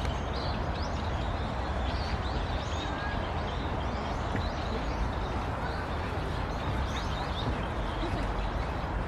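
Small birds chirping in short, high calls over a steady low rumble of outdoor background noise.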